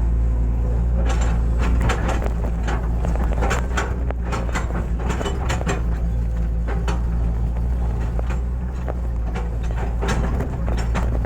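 Hitachi excavator's diesel engine running steadily under work, with a quick series of irregular knocks and scrapes from the machine digging from about a second in until near the end.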